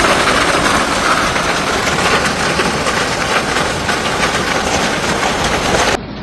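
Hailstorm with heavy rain pelting down: a loud, dense hiss peppered with many small sharp hits of hailstones striking surfaces.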